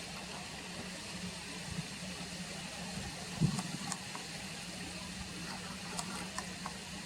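Steady outdoor ambient noise with a constant low hum and a few faint ticks, and a single soft low thump about three and a half seconds in.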